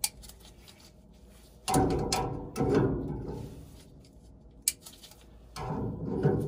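Threaded gas fitting on a furnace gas valve being tightened with a wrench: three grinding, scraping turns about a second each, with a couple of sharp metal clicks between them.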